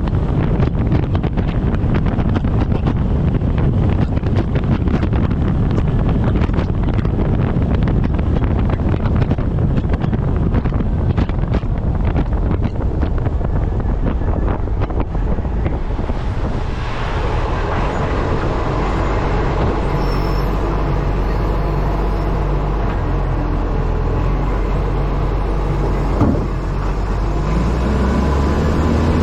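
Wind buffeting a camera mounted on the front of a moving truck, over road and engine noise. About halfway through the buffeting eases and the truck's engine drone comes through more plainly, with a rising whine near the end.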